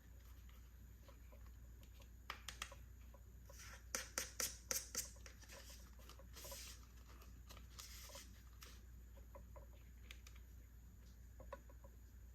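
Small plastic toy pieces being handled: light clicks and taps, with a quick run of sharper clicks around four to five seconds in and a couple of soft rustles.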